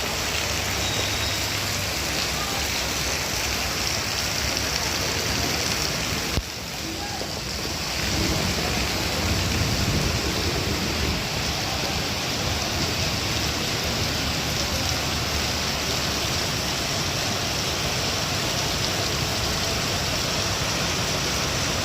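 Heavy monsoon rain with rainwater rushing and pouring, a steady loud wash of water. It drops suddenly about six seconds in and builds back over the next second or two.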